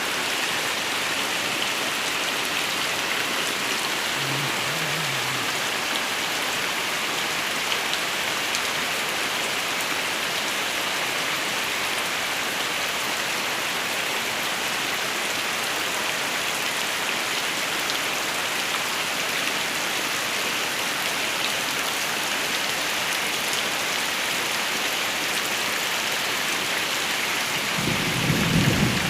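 Heavy rain falling in a steady hiss. A low rumble swells in near the end.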